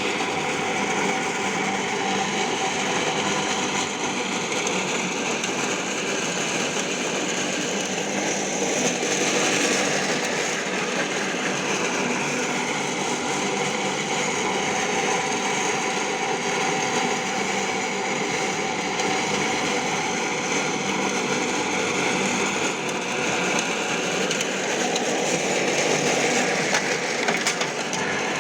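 Mini tractor engine running steadily, its pitch wavering slightly up and down.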